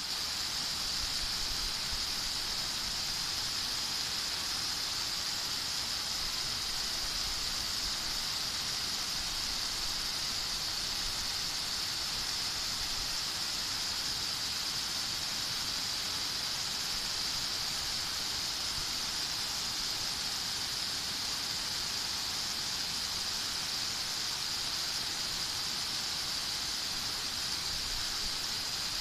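Steady rain falling in a garden: an even, unbroken hiss with a high-pitched edge.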